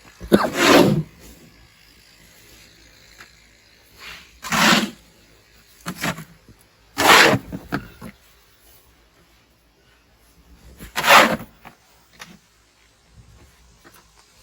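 Snow shovel scraping and pushing snow in short strokes: about five scrapes a few seconds apart, each under a second long.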